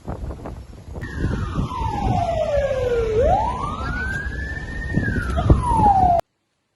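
A siren wailing in slow glides, falling, then rising, then falling again, over a low rumble of strong wind on the microphone. The sound cuts off abruptly about six seconds in.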